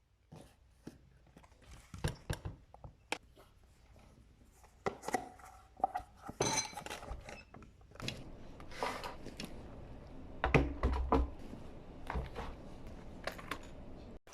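Irregular clicks, clinks and knocks of small objects being handled, some sharper and louder around the middle and near the end.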